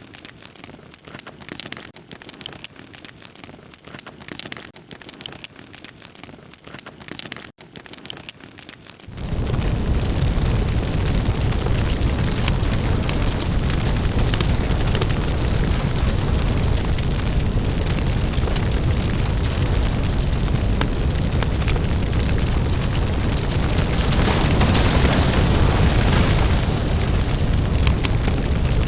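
Match heads igniting in a chain reaction, with crackling and hissing. About nine seconds in, the sound jumps sharply to a loud, dense rush of burning that holds steady after that.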